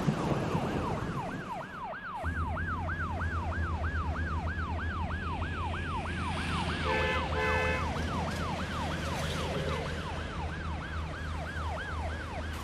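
Emergency siren wailing in a fast repeating cycle, its pitch falling on each sweep about two and a half times a second, over a steady low hum that starts about two seconds in. About seven seconds in, a short steady horn-like tone sounds briefly over it.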